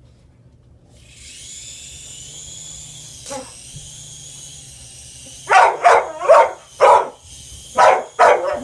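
A toy helicopter's small electric rotor motor starts about a second in and keeps up a steady high-pitched whine. Past the halfway point a dog breaks into a run of loud, excited barks, several in quick succession.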